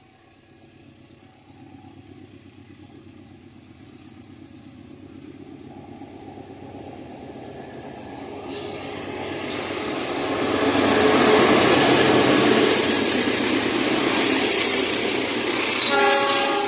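Diesel train approaching and passing, growing steadily louder to its loudest about eleven seconds in. A short pitched sound is heard just after sixteen seconds.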